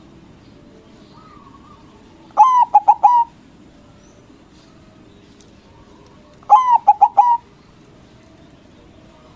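White zebra dove (perkutut) singing: two cooing phrases about four seconds apart, each a quick run of staccato coos lasting under a second.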